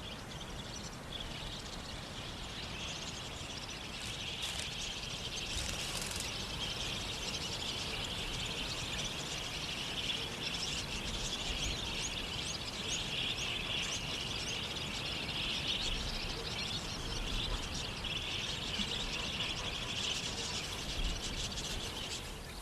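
A flock of budgerigars chattering: many short, high chirps overlapping into a continuous twittering chorus.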